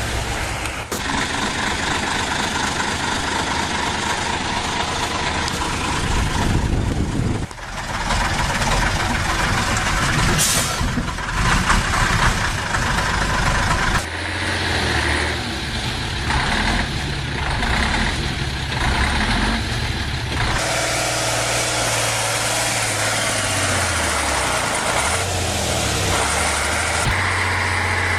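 Heavy truck engines running and revving in a series of short clips that cut abruptly from one to the next, with a short high hiss about ten seconds in.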